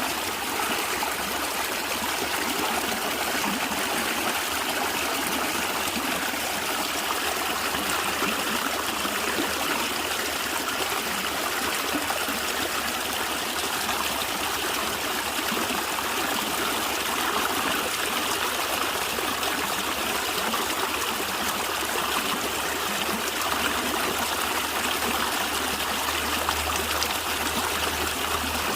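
Natural stream of water gurgling and trickling steadily.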